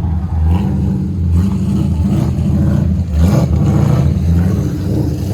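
Car engine running loudly, its sound heavy in the low end and fluctuating slightly.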